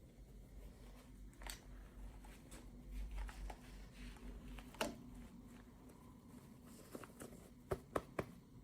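Faint handling of small plastic toy pieces and packaging: scattered light clicks and taps, with a louder click near the middle and three quick clicks near the end, over a low hum.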